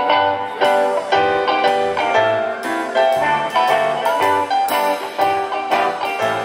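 A band playing an instrumental passage of a song: quick runs of pitched notes over a line of low bass notes, with no singing.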